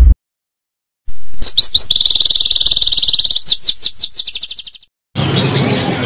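A songbird singing: quick high chirps from about a second in, then a sustained trill lasting about a second and a half, then a run of rapid chirps that fades out. Near the end, outdoor background noise comes in.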